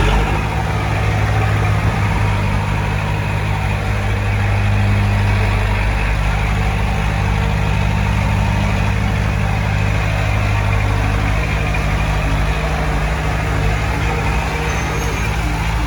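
Heavy diesel earthmoving engine running at a steady speed.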